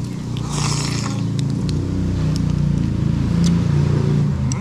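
A motor vehicle engine running close by, its low hum growing louder and then easing off near the end. There is a short hiss about half a second in.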